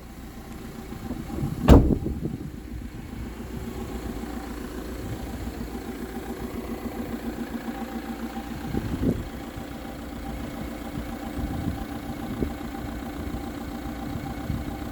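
Fiat Doblo's 1.6-litre JTD turbodiesel engine starting up with a loud burst about two seconds in, then idling steadily with an even diesel pulse.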